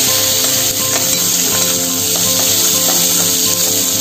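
Garlic cloves with cumin and mustard seeds frying in hot ghee in an aluminium kadai, giving a steady, loud sizzle. A spatula stirs them, with light scrapes and taps against the pan.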